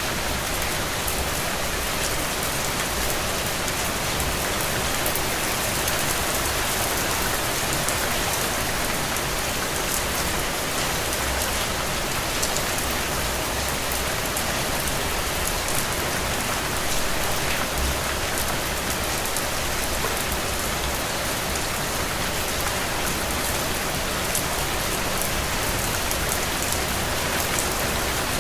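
Steady rain falling, an even hiss with many fine drop impacts on surfaces.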